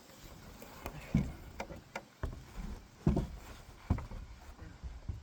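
A series of short knocks and thumps at irregular intervals, three of them much louder than the rest.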